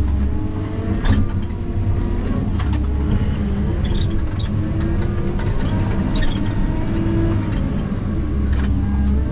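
Log skidder's diesel engine working hard, its pitch rising and falling, with scattered knocks and clanks from the machine, the sharpest about a second in.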